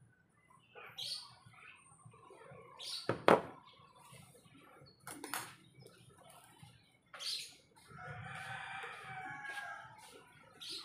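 Birds chirping in short, spaced calls, with a longer, fuller call near the end. A single sharp knock sounds about three seconds in.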